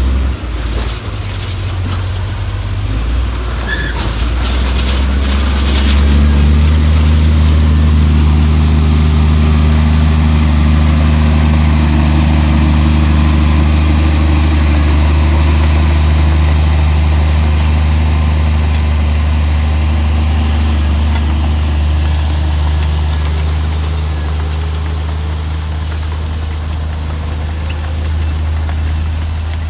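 Heavy diesel engine of earthmoving machinery running hard at a steady pitch, with metallic clattering in the first few seconds.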